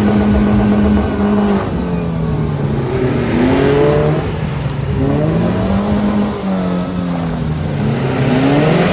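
Car engine revving hard. It is held high for the first second or two, then its pitch falls and climbs again several times.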